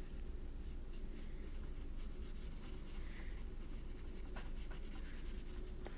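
Faint strokes of a paintbrush on paper as watercolor is applied, with a few light ticks, over a steady low hum.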